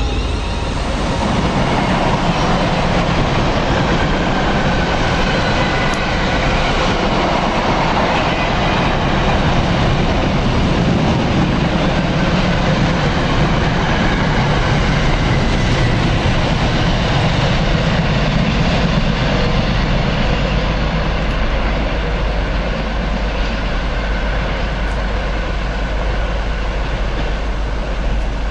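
A train running through on the main line, with a loud, steady rush and rumble of wheels on the rails that eases off gradually in the last several seconds as it goes away.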